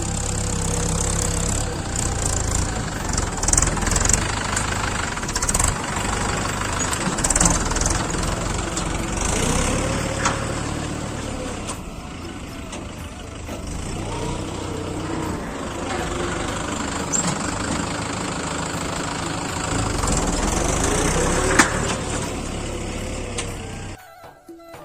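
Mahindra 415 DI SP Plus tractor's diesel engine running as the tractor drives over a rough, muddy track, its pitch rising and falling, with occasional knocks and rattles. The sound cuts off abruptly near the end.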